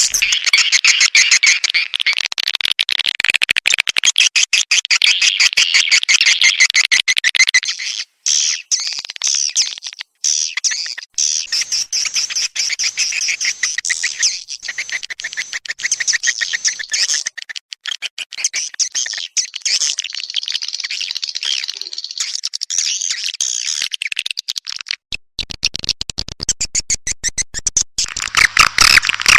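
Recorded swiftlet calls: a dense, fast chattering of rapid clicking trills, with a few short breaks. This is a swiftlet 'calling' sound, played to lure swiftlets into a nesting house.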